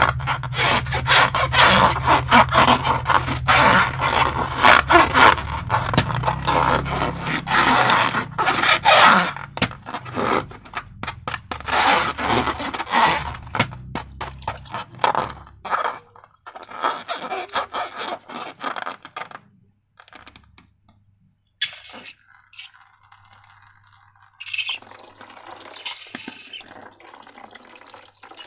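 Dense crackling and scraping from hands working slime-making materials, full of sharp clicks, thinning out after about fifteen seconds and nearly stopping. An even hiss begins near the end.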